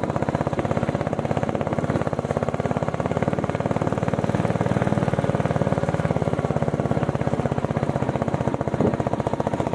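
Royal Enfield Bullet 350's single-cylinder engine running at low, steady revs, with a rapid, even beat of exhaust pulses.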